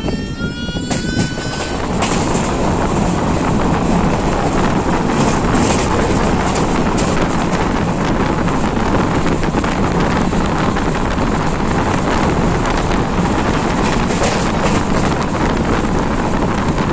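Passenger express train running, a steady loud rumble and rush of wheels on the track with scattered clicks. A brief rising tone sounds over the first couple of seconds.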